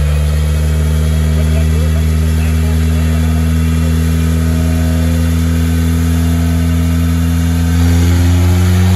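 1983 Volvo 240 Turbo's turbocharged B21FT four-cylinder on a chassis dyno pull, heard through its 2.5-inch stainless exhaust and Cherry Bomb muffler. The engine note climbs slowly and steadily in pitch as the revs rise under load, getting louder near the end.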